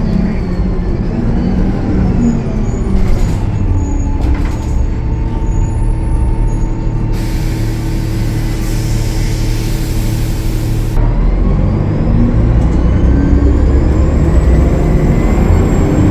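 Transit bus with a Cummins ISL9 diesel engine running, with a steady whine through the middle. Compressed air hisses loudly for about four seconds from the air brake system. The engine rumble grows louder near the end.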